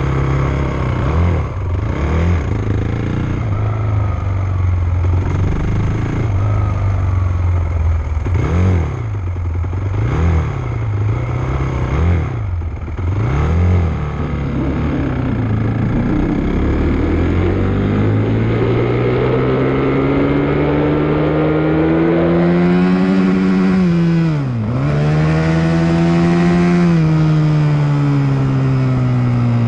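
Motocross dirt bike engine under way: short throttle blips, rising and falling about every second and a half, for the first fourteen seconds or so. Then a long, steady climb in revs, a quick drop and recovery about twenty-five seconds in, and steady high revs.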